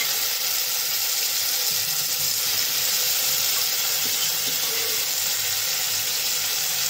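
Wet saag purée of spinach, bathua and mustard greens sizzling in hot mustard oil in a steel kadhai, just after being added: a steady, even hiss.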